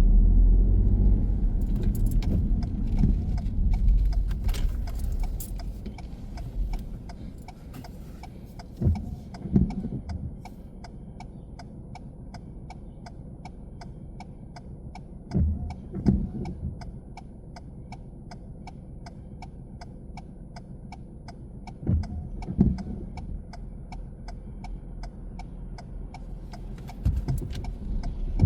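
Car cabin sound: road and engine rumble that dies down after about six seconds as the car slows. Then a steady ticking of the turn-signal indicator, about two to three ticks a second, with a pair of dull thumps every six seconds or so. The rumble picks up again near the end as the car moves off.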